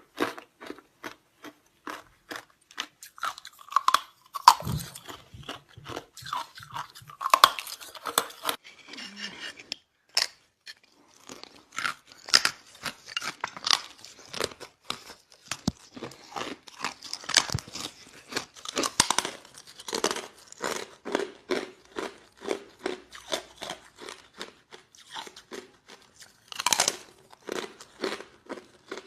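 Ice being bitten and chewed close to the microphone: a fast, steady run of crisp crunches, with a short lull about ten seconds in.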